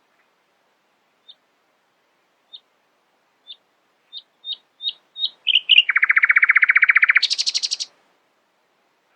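Nightingale singing one song phrase: single high piping notes, spaced out at first, then coming faster and louder, break into a rapid low trill and then a higher, faster trill that stops about a second before the end.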